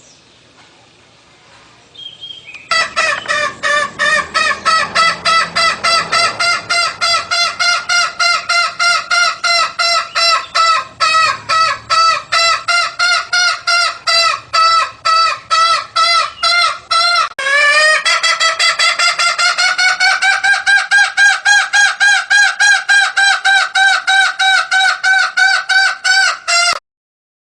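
Junglefowl calling: a rapid run of short pitched notes, about two a second, starting a few seconds in. The series breaks briefly about two-thirds of the way through, resumes a little higher in pitch, and cuts off abruptly near the end.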